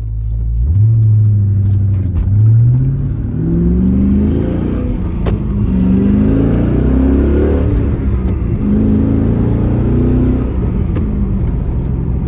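First-generation Cadillac CTS-V's V8 engine accelerating through the gears. Its pitch climbs and then falls back twice with the upshifts.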